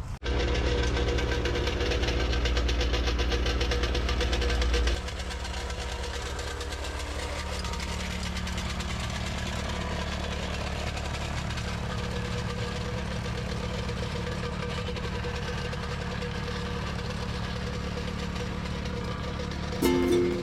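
Cat 307SSR mini excavator's diesel engine running steadily. It is louder for about the first five seconds, then drops to a lower steady run.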